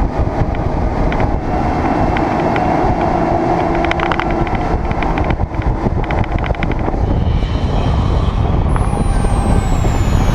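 Boat underway on its 300 Mercury Verado outboard: a steady engine drone with heavy wind buffeting on the microphone.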